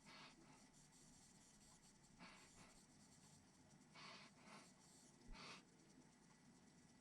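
Near silence broken by about six faint, brief scratchy rasps a second or so apart: small plastic RC parts being handled and a screw being threaded into plastic by hand.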